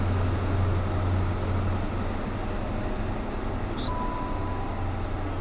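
Diesel engine of a class 43 HST power car pulling away as the train departs: a steady low hum that weakens about two seconds in, over a wash of rail and station noise. A brief high beep sounds about four seconds in.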